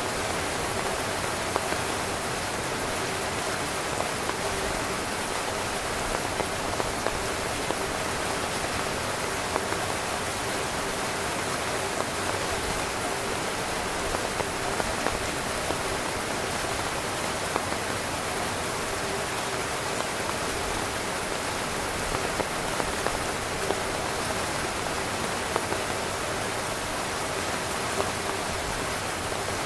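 Heavy rain falling on a camping tent: a steady, dense hiss of rain with individual louder drops hitting the fabric now and then.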